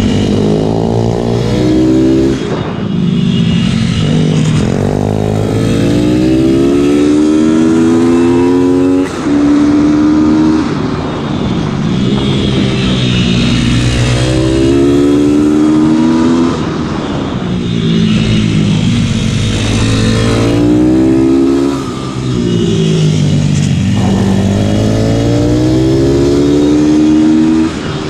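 Pit bike engines at racing pace, heard onboard a YCF Factory SP2 150 chasing an IMR 190 RR. The engine note climbs through the gears in repeated rising runs, broken by gear changes and falling away into the corners, about six times over the lap.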